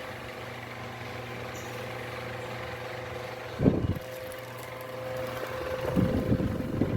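Arno Alívio VE30 80 W desk fan running, with a steady motor hum and whoosh of the blades. Brief low rumbling gusts come about halfway through and again near the end.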